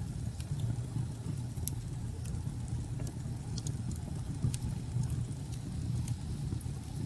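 Wood fire crackling, with scattered sharp pops over a steady low rumble of storm wind.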